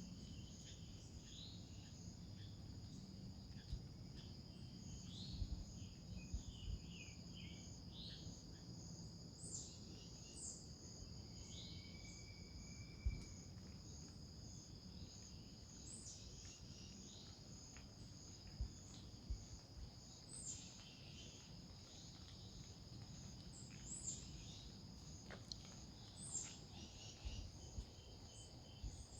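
A faint outdoor ambience. A steady high-pitched insect trill runs throughout, and many short bird chirps and calls are scattered over it. A few faint knocks are heard, the sharpest about 13 seconds in.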